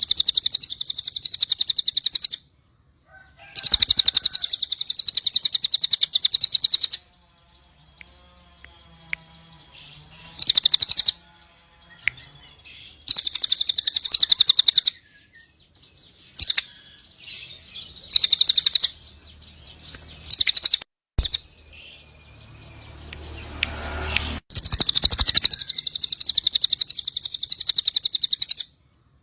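Cililin songbird song: rapid, very high-pitched chattering in loud bursts of one to four seconds that start and stop abruptly, with quieter scattered chirps and noises in the gaps.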